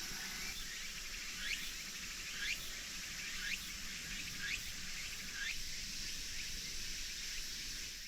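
A bird giving five short upward-sweeping calls about a second apart, over a steady high-pitched drone of insects.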